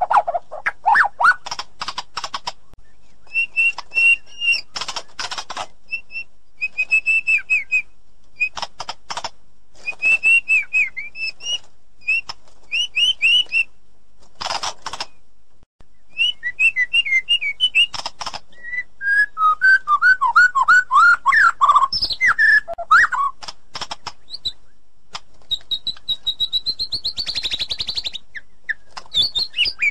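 White-rumped shama singing a long, varied song of clear whistled phrases and rapid rattling trills, broken by short pauses. About two-thirds of the way through comes a run of falling notes, and near the end a higher whistled phrase.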